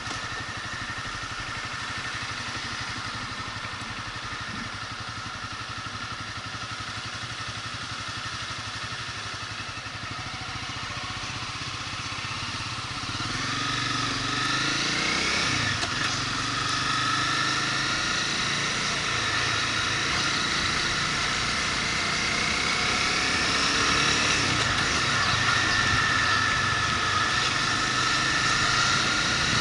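Motorcycle engine running while riding, its pitch rising and falling with the revs. It gets louder about halfway through.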